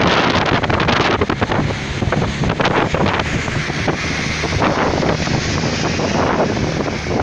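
Loud wind buffeting the microphone, a rushing noise with uneven gusts.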